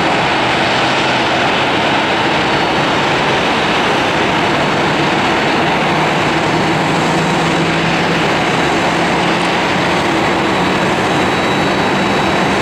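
Boeing 737-800's CFM56-7B turbofan engines running at taxi power: a steady rush with a thin, steady high whine.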